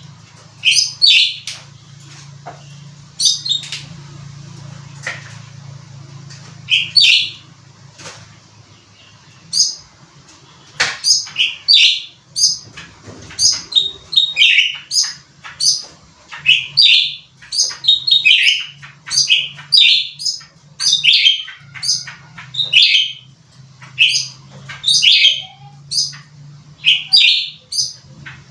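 A cucak ranting songbird calling hard and repeatedly in short, sharp, high chirps: a few spaced calls at first, then about one or two a second from about ten seconds in. A steady low hum runs underneath.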